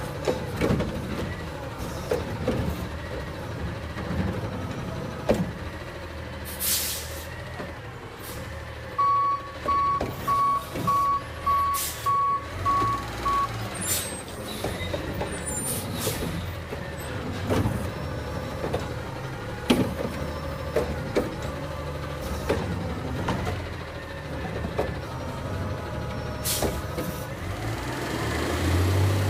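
Garbage truck's diesel engine running, with a reversing beeper sounding about twice a second for several seconds mid-way and several short hisses of air brakes.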